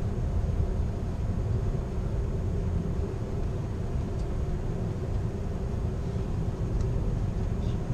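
Steady low running rumble of an Amtrak California Zephyr passenger car rolling over the rails, heard from inside the rear car. A few faint, short high squeaks come in the second half.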